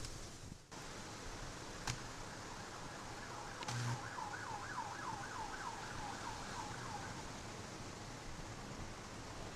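An emergency vehicle siren in fast yelp mode, its pitch sweeping up and down about three times a second for roughly four seconds. It is heard over a steady rush of storm wind, with a sharp click about two seconds in.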